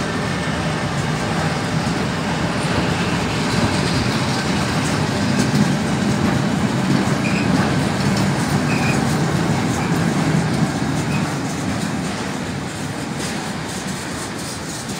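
Freight train of loaded car-carrier wagons rolling past: a steady rumble of steel wheels on the rails, easing slightly toward the end.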